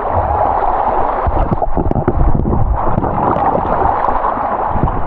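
Fast river rapid rushing around the microphone: a loud, steady churning of water with low rumbling and scattered knocks.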